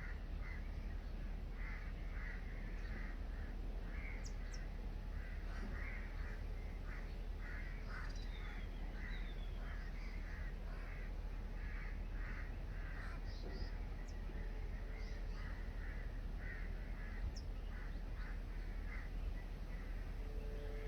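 Birds calling over and over in short harsh notes, roughly one to two a second, with a couple of brief falling whistles about eight seconds in, over a steady low rumble.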